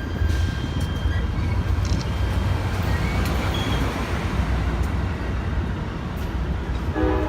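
Train rolling past with a steady, loud rumble, and a short pitched tone near the end.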